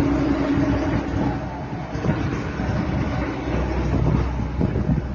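Boat engine running steadily, a constant low rumble with wash and wind noise over it.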